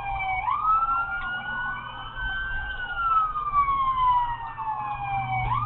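Police car siren in a slow wail, climbing quickly about half a second in, holding high, then falling slowly and climbing again near the end, over a steady low vehicle hum.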